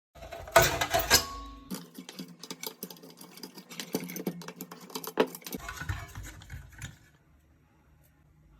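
Computer power supply running with its fan making rapid, irregular clicking and rattling over a steady hum: the fan noise fault. The noise stops about seven seconds in.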